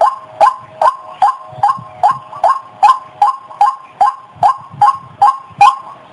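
White-breasted waterhen (ruak-ruak) calling in a fast, unbroken series of short notes, each dropping in pitch, about two and a half calls a second.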